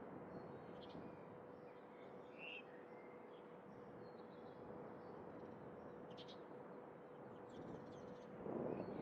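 Quiet outdoor ambience with a few faint, distant bird chirps and short trills over a steady background hiss and a faint steady hum. Near the end a louder swell of noise comes in.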